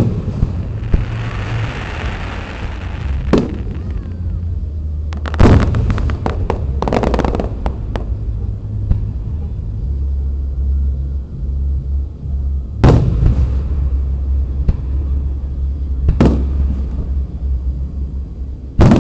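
Aerial firework shells bursting in sharp bangs: a quick cluster of bursts with crackling about a third of the way in, then single bangs a few seconds apart, over a steady low rumble.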